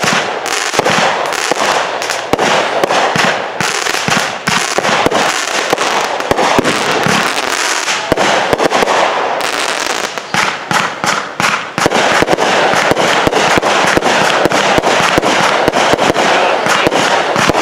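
Consumer aerial fireworks going off in rapid succession: a dense stream of bangs and crackling. There is a brief lull about ten seconds in, then a quick run of sharp reports to the end.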